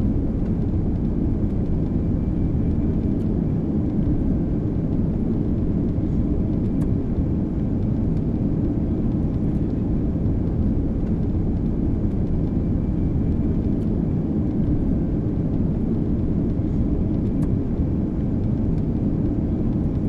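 Boeing 777 jet engines giving a steady low rumble at takeoff power as the airliner takes off and climbs away.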